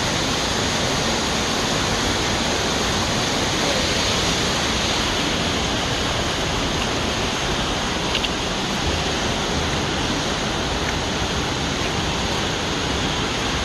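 Waterfall swollen with rainwater, a steady rush of falling water.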